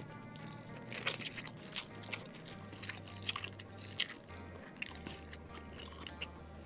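Close-miked chewing of a mouthful of fried instant noodles, with scattered wet mouth clicks, over quiet background music with a steady bass line.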